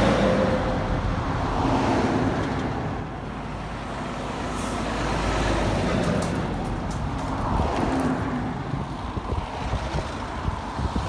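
Heavy trucks of a wide-load convoy passing one after another, each engine swelling and fading as it goes by. Wind buffets the microphone near the end.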